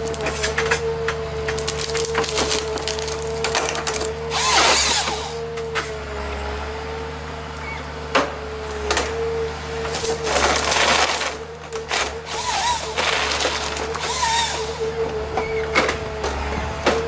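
Wood cracking and splintering under a machine, a steady mechanical drone running underneath. Several louder rushes of splitting wood come about four and a half, ten and thirteen seconds in, with sharp snaps in between.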